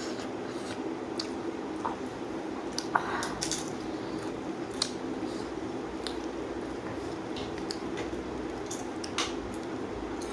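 Eating sounds: wet chewing and squishing of a rice-and-dal meal, with scattered short clicks and smacks, over a steady low hum.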